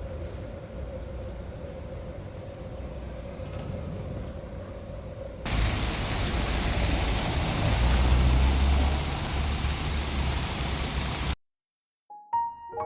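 Steady hiss and low rumble of a moving vehicle, with a faint steady hum. About halfway through it jumps abruptly to a louder, fuller rush with a stronger rumble. That cuts off suddenly, and soft piano music starts near the end.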